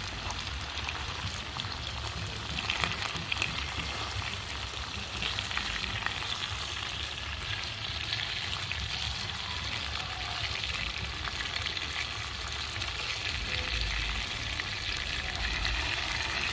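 Chicken pieces deep-frying in a pot of hot oil: a steady, crackling sizzle with small pops throughout, as the pieces brown to golden.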